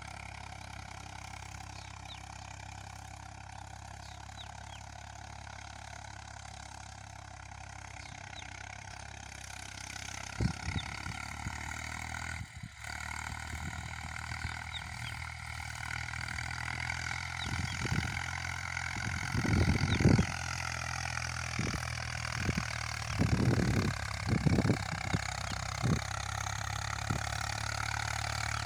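Eicher 485 tractor's diesel engine running with a steady rumble, getting louder about a third of the way in, with irregular short, louder low pulses through the second half.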